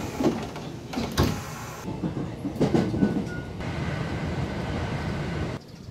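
JR local train running, heard from inside the carriage: a steady rumble with a few clunks and rattles in the first half. The sound cuts off shortly before the end.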